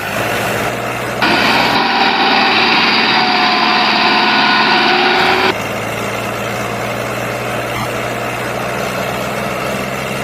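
Tractor diesel engine running steadily. From about one to five and a half seconds a louder, higher-pitched stretch of engine noise starts and then stops abruptly.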